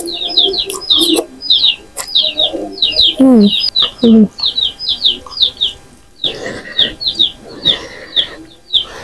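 A small bird chirping over and over, several short high chirps a second, close by. Under it come the slurps of noodles being eaten and a few sharp clicks of cutlery on a bowl.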